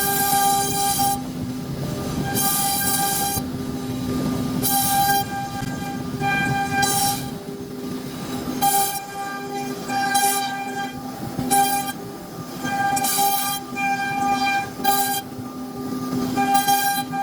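CNC router spindle running with a steady whine, while a harsher, higher cutting sound comes and goes in spells of about a second as the bit cuts into the wood.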